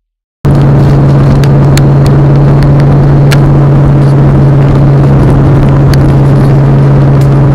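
Car engine running at a steady speed with no revving, very loud and close to the microphone. It cuts in abruptly about half a second in, with a few sharp ticks over it.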